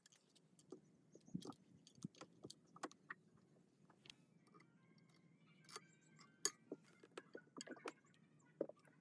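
Faint, scattered clicks and light clinks, as of small metal parts being handled, with a few brief faint tones in the middle.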